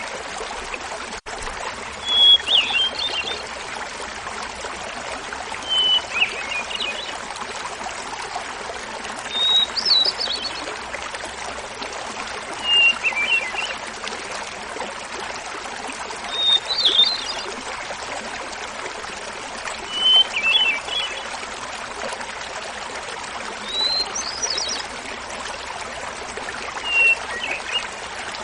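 Hermit thrush singing, a phrase every three to four seconds, each phrase an opening held note followed by a quick fluttering run, pitched higher or lower from one phrase to the next. Underneath runs the steady babbling of a small mountain waterfall.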